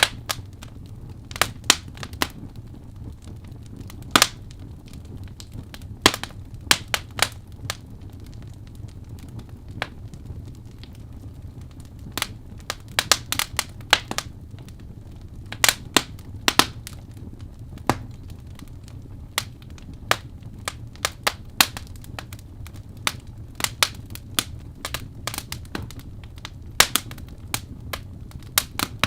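Wood fire of burning logs crackling: sharp irregular pops and snaps, several at once in places, over a steady low rumble of the flames.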